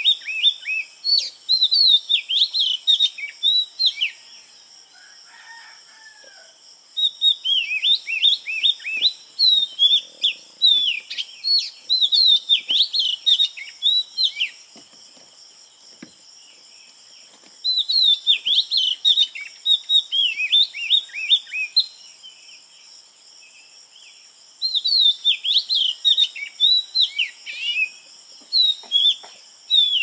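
Birds chirping in bouts of rapid, high-pitched calls a few seconds long, with quieter pauses between, over a steady high-pitched buzz.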